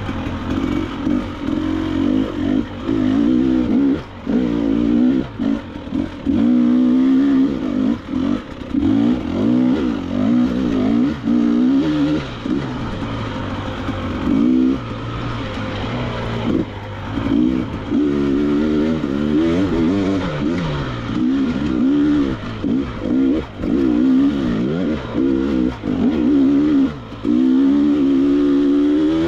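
KTM 300 XC-W two-stroke dirt bike engine revving up and down continuously as the throttle is worked over a technical trail section, with brief drops where the throttle is chopped.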